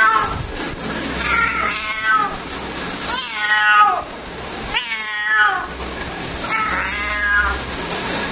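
Female cat meowing over and over in long, drawn-out calls that slide in pitch, four of them about one and a half to two seconds apart: a queen calling for a mate.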